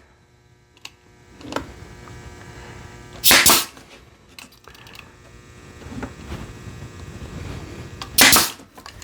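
Brad nailer firing twice, about five seconds apart, each a sharp short shot driving a brad into cedar, with a few faint clicks of handling between.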